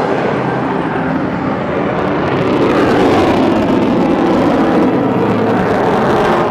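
Aircraft flying past: a loud roar that swells to its peak about three seconds in and stays loud.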